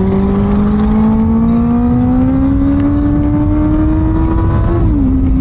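Benelli 600i's inline-four engine pulling hard in gear, its pitch rising steadily as the bike gathers speed, then dropping about five seconds in as it shifts up, with wind rush on the mic.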